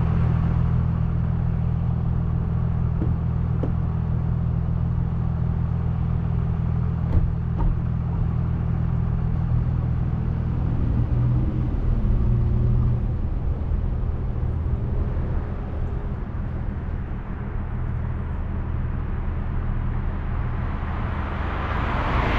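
Car driving, heard from inside the cabin: a steady low engine hum with road noise, and a few small knocks about 3 and 7 seconds in.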